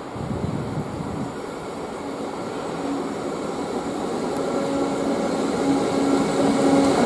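Heavy diesel-hauled freight train approaching, its rumble growing steadily louder, with a low steady tone coming in and out from about halfway.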